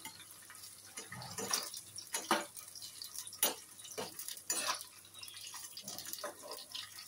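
Bitter gourd slices shallow-frying in oil in a kadhai over low heat, sizzling with irregular crackles, while a slotted spoon stirs them and knocks against the pan.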